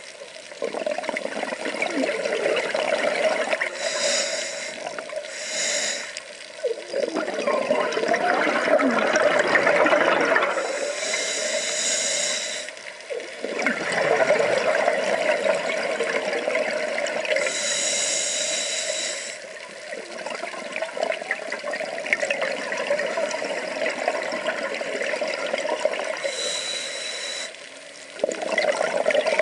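Water sloshing and bubbling around a camera held in the sea, with a brief hissing rush every several seconds.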